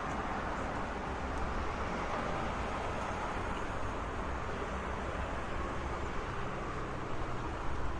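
Steady road traffic noise: a continuous wash of passing vehicles and tyres with no single car standing out.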